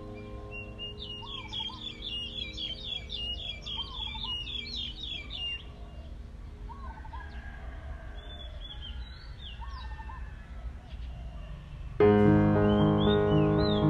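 Small birds chirping in a quick twittering run for the first five seconds or so, with a short lower call repeating every second or two, over faint background music. About twelve seconds in, the background music comes in loudly with held notes, the chirping still above it.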